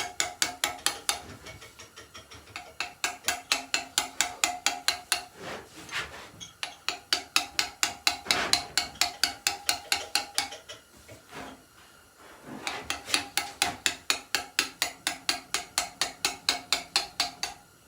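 Hammer striking a steel chisel into headstone stone in quick, even strokes, about five a second, each with a metallic ring. The strokes come in runs, broken by brief pauses about two seconds in and again around eleven seconds in.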